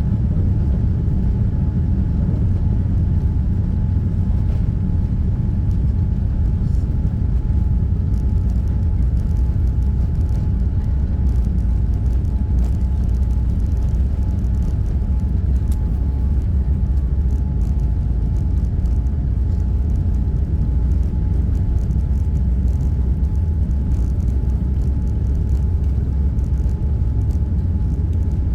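Cabin noise inside a Boeing 787-9 during takeoff and climb: the jet engines and airflow give a loud, steady low rumble with a faint steady hum, and light ticks and rattles come in from about eight seconds in.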